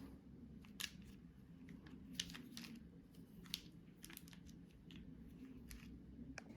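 Faint handling noises: a scattering of light, irregular clicks and rustles over near silence.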